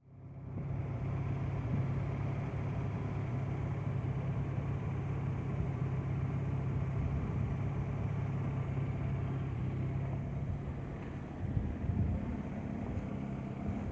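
Engine running steadily at idle just after a service, with a steady low hum. About three-quarters of the way in it turns less even, with a few brief surges.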